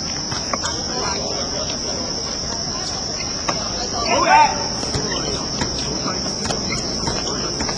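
Steady high-pitched drone of insects running throughout, with a brief distant shout about four seconds in.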